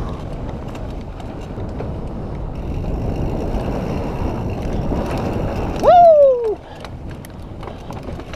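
Mountain bike riding over a dirt trail: steady wind and tyre noise with scattered rattles and clicks from the bike. About six seconds in, the rider gives a short 'woo' that falls in pitch.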